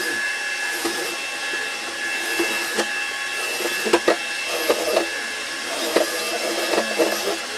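Steady whining hiss of a running machine, with scattered short knocks and taps over it.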